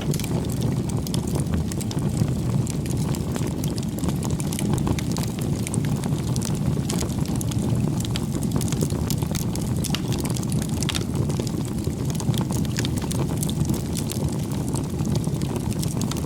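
Wood bonfire burning: a steady low rush of flames with frequent sharp crackles and pops of burning wood.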